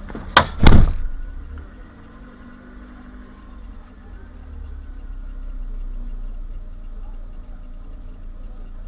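Two sharp crash impacts about a third of a second apart, the second the loudest: a car collision picked up by a dashcam's microphone. Then a low vehicle rumble with a regular light ticking.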